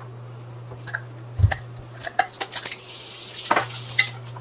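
Kitchen utensils and dishes clinking and knocking: a run of sharp clicks starting about a second and a half in, with a scraping, rustling stretch near the end, over a steady low hum.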